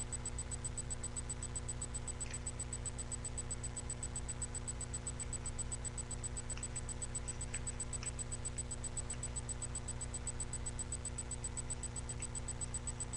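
Steady low electrical hum with a thin high whine, the noise floor of a webcam microphone, with a few faint soft ticks scattered through it.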